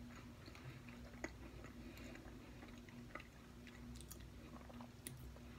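Faint chewing of a bite of unheated frosted Pop-Tart, a few small soft clicks from the mouth, one a little sharper about a second in, over a low steady hum.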